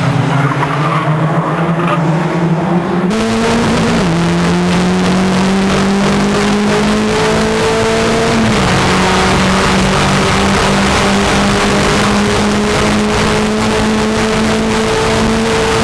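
Race car engine running hard and steady, its pitch stepping up and down a few times and otherwise climbing slowly.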